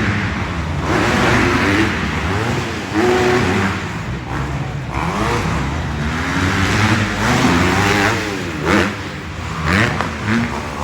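Dirt-bike engines revving up and down as the motocross bikes race around the track, the pitch repeatedly rising and falling with gear changes and throttle.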